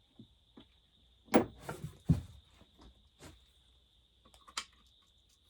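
Scattered metal clinks and knocks of hand tools being handled, as sockets are picked out and tried on a chainsaw's muffler bolts. The busiest run of clinks comes about one and a half to two seconds in, with one sharp click near the end.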